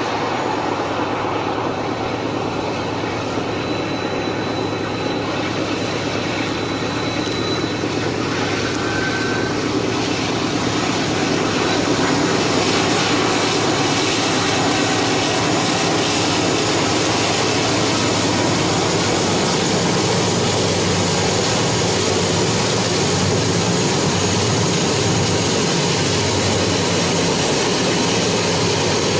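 Canadian Pacific train running: a steady diesel engine drone with the continuous rumble of the train, getting a little louder about twelve seconds in.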